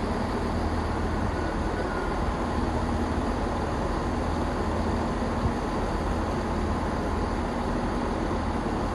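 Train running into a station platform: a steady low rumble and hum.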